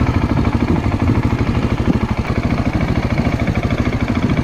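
Motorcycle engine idling steadily with a rapid, even putter.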